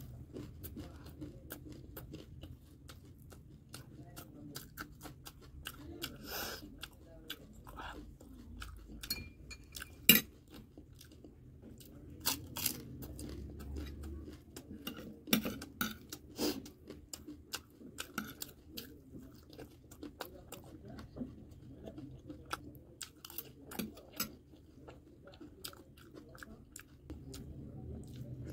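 Close-miked chewing and crunching of crisp panipuri shells and spicy noodle chatpate, with many small sharp mouth clicks and one louder click about ten seconds in.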